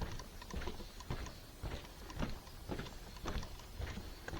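Footsteps of people walking on a trail, an even tread of about two steps a second.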